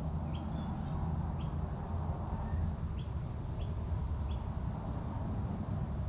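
Small bird giving about five short, high, upward-sweeping chirps spread over the first four and a half seconds, over a steady low rumble.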